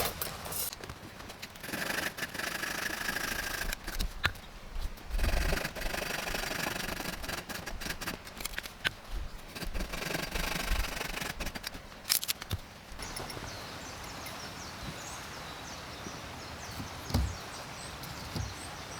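Camping gear being handled: rustling and rubbing with scattered clicks and knocks for most of the first thirteen seconds, then a steadier, quieter outdoor background.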